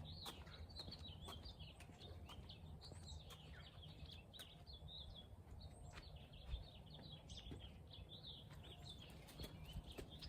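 Faint chirping of many small birds, short overlapping calls, with a few scattered faint clicks.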